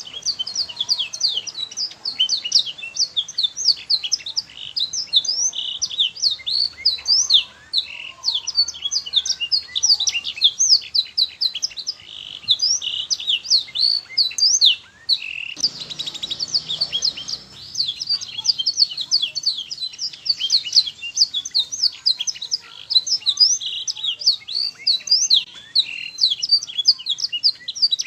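Canary singing a fast, unbroken song of quick high chirps and rolling trills, a tutor song for teaching young canaries to sing.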